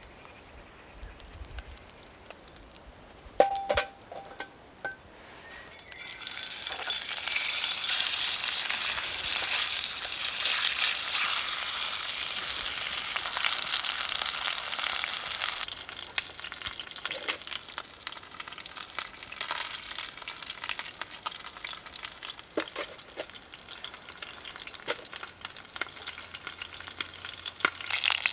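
Food frying in a hot pan. A few clicks and a sharp metallic knock come first. About six seconds in, the sizzling swells up and stays loud for around ten seconds, then drops suddenly to a quieter sizzle with scattered crackles.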